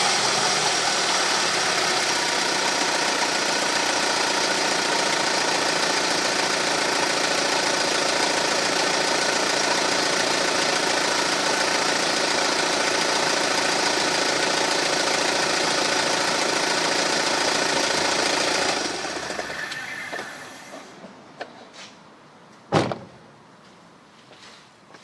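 BMW E46 318i's N46 four-cylinder petrol engine running steadily with a rattle, then shut off about 19 seconds in and winding down. A single sharp click follows a few seconds later.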